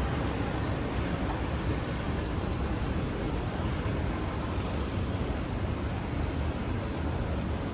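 Steady rumble and rushing noise inside a moving MRT train carriage, heard as the train runs through an underground tunnel at a constant speed.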